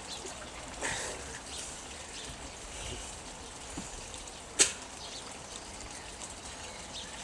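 Water trickling and lapping gently around a kayak, with one sharp click about four and a half seconds in.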